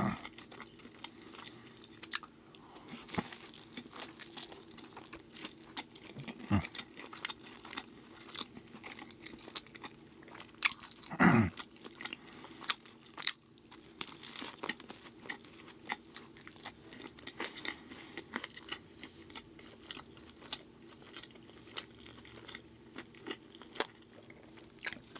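Close-miked chewing and biting of an air-fried burrito, with crisp crunching and wet mouth clicks throughout. One short hum from the eater about eleven seconds in.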